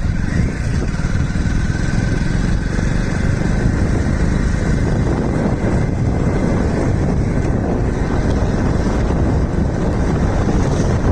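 Steady rumble of a moving vehicle, heavy in the low end and unbroken throughout.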